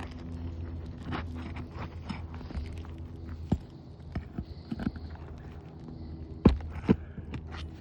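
Scattered taps, clicks and scrapes of hand work on an asphalt shingle roof, with two louder knocks about half a second apart near the end, over a steady low hum.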